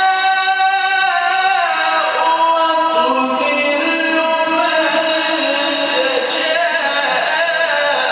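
A Quran reciter's solo voice chanting a verse in a long, drawn-out melodic line, holding notes and stepping between them with ornaments, without a break.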